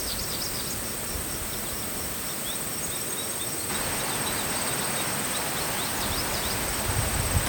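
Winter forest ambience: a steady rushing hiss with small birds calling in short, high chirps, several a second. A low rumble comes in near the end.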